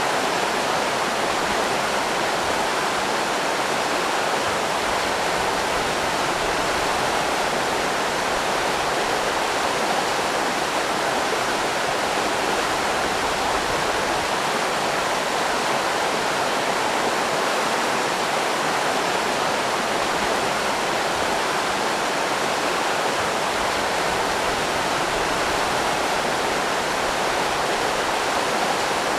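River rapids rushing, a steady, even roar of fast water over rocks.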